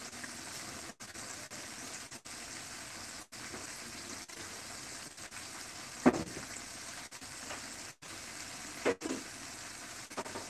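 Breaded chicken frying in hot oil in a small frying pan: a steady sizzle. Two short, louder sounds break in about six and nine seconds in.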